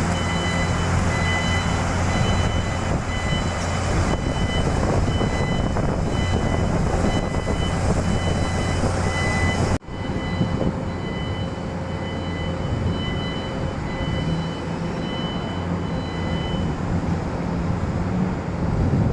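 Zoomlion hydraulic excavator's diesel engine running steadily while digging, with a steady high whine over the low hum. About halfway through the sound cuts off abruptly and resumes, the engine still running but duller, the whine fading out later.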